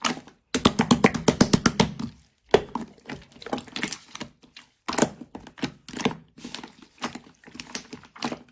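Rapid trains of sharp clicks and taps, in bursts of a second or so with short pauses between them.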